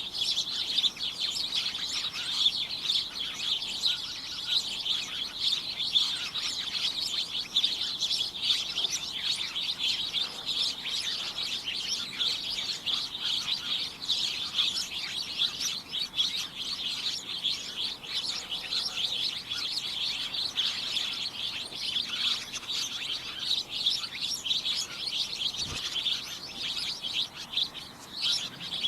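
Many birds chirping at once in a dense, cacophonous chorus of short, high-pitched chirps that overlap without pause.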